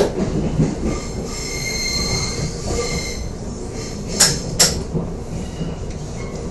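Korail Mugunghwa-ho passenger train running, heard from inside the car: a steady rumble of wheels on the rails, with a high wheel squeal from about one to three seconds in. Two sharp clacks a little after four seconds.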